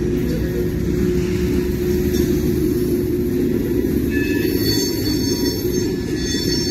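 Freight train of covered hopper cars rolling past close by: a steady, loud rumble of steel wheels on rail. A faint high whine joins about four seconds in.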